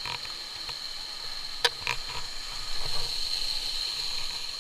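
Steady high-pitched drone of forest insects, with two sharp clicks about a second and a half in and a low rustling rumble that grows louder after about three seconds.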